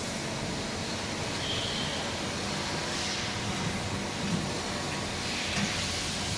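Kuraki KBT 13 CNC horizontal boring machine running: a steady mechanical noise with a low hum and a brief high whine about a second and a half in.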